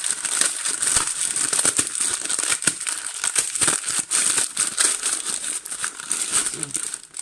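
A block of instant noodles being broken up by hand inside its sealed plastic packet: the wrapper crinkles and crackles continuously as the dry noodles are crushed, and the sound stops near the end.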